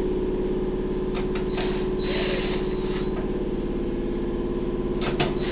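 Electric screwdriver or drill motor running steadily, driving screws. There are a few sharp clicks near the end, and the motor stops just after.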